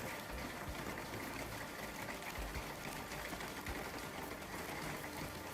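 Hailstorm downpour: a steady, dense, rapid patter of hail and heavy rain striking hard surfaces, with a few low thumps.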